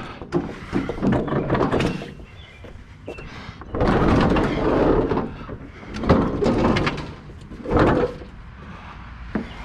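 A heavy old refrigerator being dragged and shoved along, in several bursts of scraping with knocks between quieter pauses.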